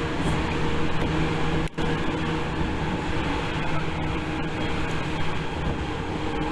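Tokyu 8500 series electric train running, heard from inside the car: a steady rumble of wheels and running gear with a few held low hums. The sound briefly cuts out for a moment just under two seconds in.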